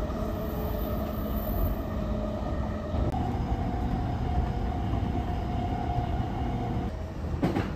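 Electric commuter train running, heard from inside the car: a steady rumble with a held whine that steps up in pitch about three seconds in, and a few knocks near the end.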